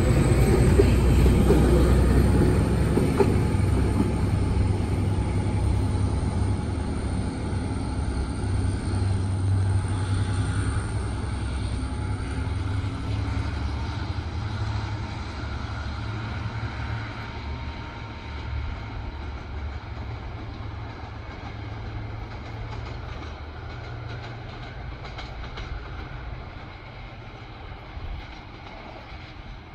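Train of vintage passenger carriages rolling away along the track: a steady low rumble of wheels on rails that fades gradually as the train draws off into the distance.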